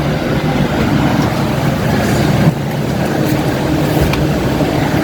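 Steady mechanical rumble with a low hum from a passenger ferry's engines, heard on board.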